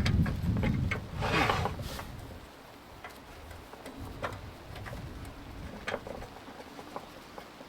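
Wind buffeting the microphone for the first two seconds, then scattered light clicks and taps as the metal parts of a small iron heater stove are adjusted and locked shut, over faint rain patter.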